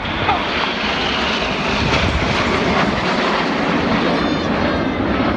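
A formation of BAE Hawk T1 jets flying past, their turbofan engines making a loud, steady jet noise.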